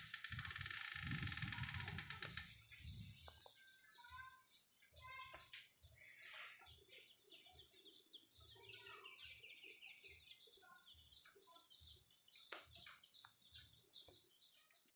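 Small birds chirping faintly and repeatedly in quick short notes. For the first two seconds or so there is a louder rustle of handling.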